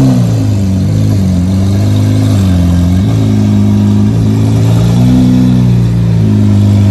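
Lamborghini Aventador's V12 running at low revs while the car creeps along. The engine note rises and falls about once a second with light throttle blips.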